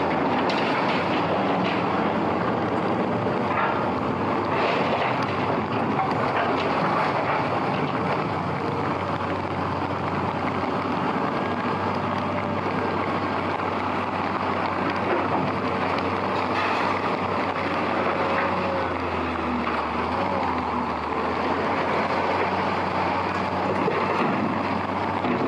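Heavy rain pouring steadily, with a vehicle engine running under it as a low hum.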